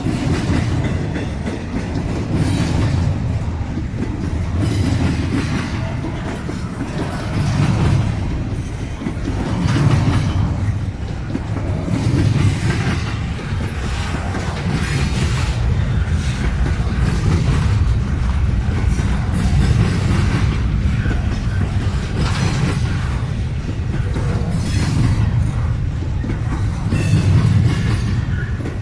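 A train's cars rolling past, wheels clicking over the rail joints in a steady clickety-clack over a heavy low rumble.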